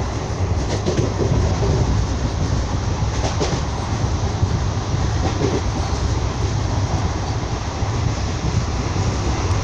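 Passenger train running: a steady rumble with a few faint clicks from the wheels.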